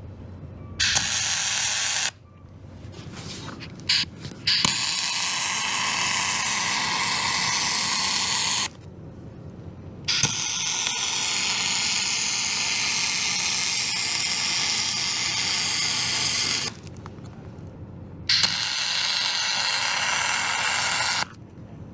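Wire-feed (MIG) welder laying aluminum weld beads: a steady, loud crackling hiss of the arc in four runs. There is a short run about a second in, then longer runs of roughly four, six and three seconds, with brief pauses between them.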